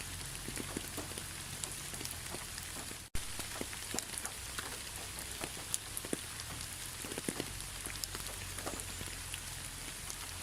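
Steady rain falling, with many individual drops ticking sharply over an even hiss. The sound cuts out for an instant about three seconds in.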